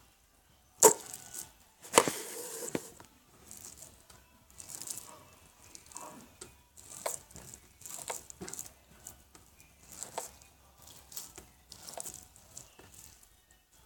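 Hands squishing and stretching slime, with sticky crackles and pops in irregular bursts. A sharp pop comes about a second in, then a louder crackly stretch lasts about a second.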